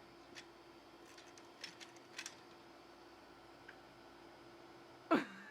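A few faint sharp clicks and taps, a green-cheeked conure's beak working at a plastic foraging toy, over a low steady hum; a short loud voice-like sound comes near the end.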